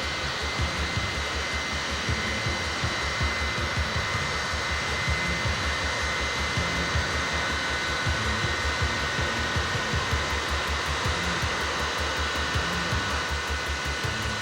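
Boeing 707's jet engines running: a steady rush with a thin, high turbine whine held over it.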